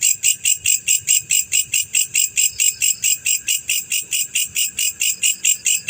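Male black field cricket calling: a steady, rapid train of short, high chirps, about five a second.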